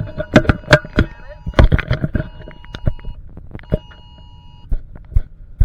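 Phone emergency alert sounding a steady two-tone alarm for a tornado warning. It breaks off about three seconds in and sounds again briefly a second later, over loud, irregular sharp knocks.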